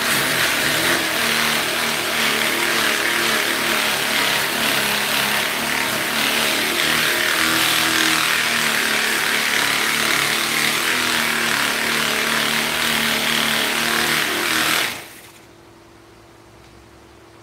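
A power tool running steadily with a loud hiss, cut off suddenly about fifteen seconds in, leaving a faint hum.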